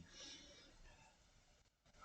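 Near silence: room tone in a pause between sentences of speech.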